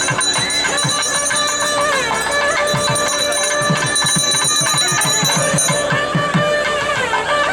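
South Indian temple ensemble of nadaswaram and thavil: the double-reed pipe plays a held, gliding melody over rapid drum strokes, with a bell ringing steadily.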